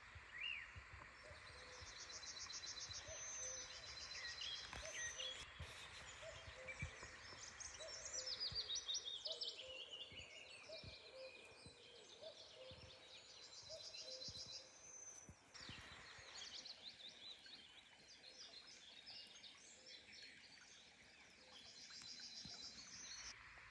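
Faint songbirds singing, several overlapping high trills and repeated chirps over a soft outdoor hiss.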